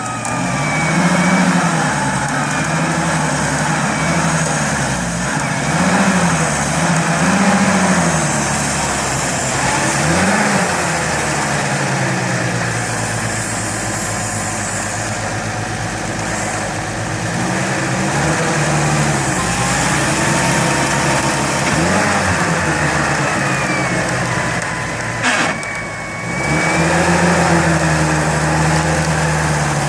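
Off-road vehicle engine revving up and down repeatedly under load while driving in rough forest ground. There is one sharp knock about 25 seconds in.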